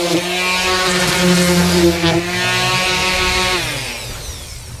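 Electric orbital sander running against wooden grill slats with a steady motor hum, then switched off about three and a half seconds in, its motor winding down in pitch.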